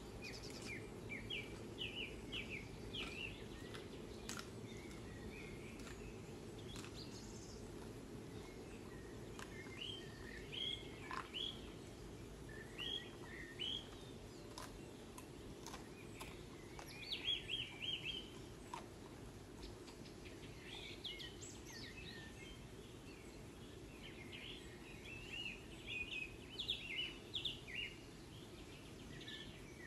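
Songbirds chirping in short, repeated phrases that come and go, over a steady low rumble of background noise.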